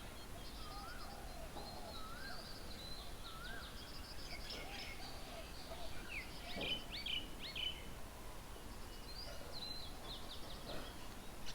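Several birds calling at once: a repeated short rising-and-falling whistle, lower arched notes, and quick high chirps and trills over a faint steady background hiss.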